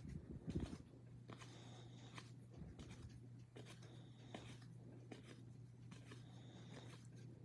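Faint handling of trading cards: soft slides and light taps as cards are flipped through one after another, over a low steady hum.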